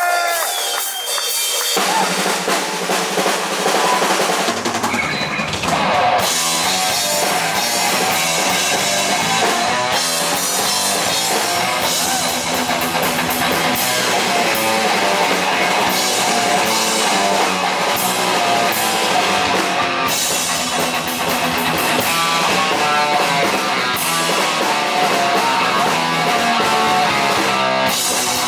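Heavy metal band playing live: drum kit and electric guitar, the fuller low end coming in over the first few seconds.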